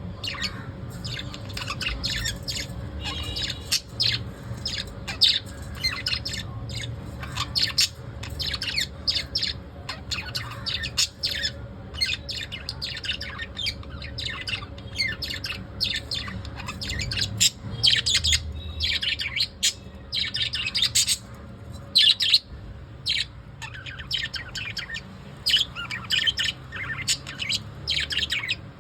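Pet lovebirds chirping continuously in quick, high-pitched runs, with a faint steady hum underneath.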